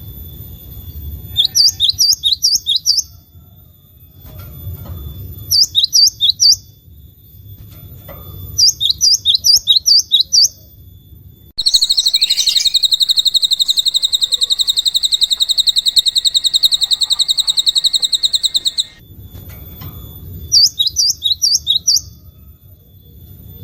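Songbird song: short phrases of quick, sweeping high notes repeated every few seconds, broken about halfway through by a long rapid high trill that runs for about seven seconds before the short phrases return.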